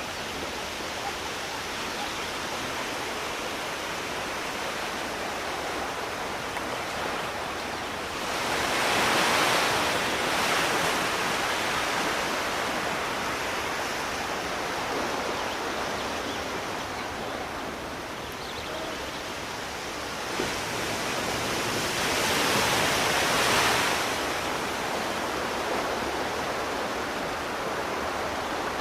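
Sea waves washing onto a shore: a steady rush, with a wave surging louder about eight seconds in and another about twenty-two seconds in.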